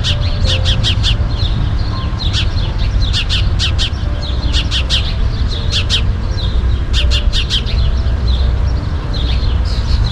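Birds chirping in quick runs of short, high chirps, repeating every second or so, over a steady low rumble.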